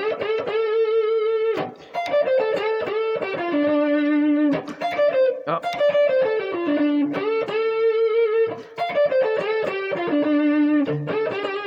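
Slightly overdriven electric guitar playing a repeated blues lick: short phrases of stepped notes that fall to a held note with vibrato, some notes bent up, with a brief gap between phrases about two seconds in and again near the end.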